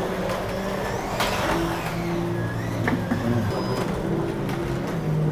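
1/24 scale digital slot cars' electric motors whining around the track, several tones at once that rise and drop in pitch with the throttle, with a few sharp clicks.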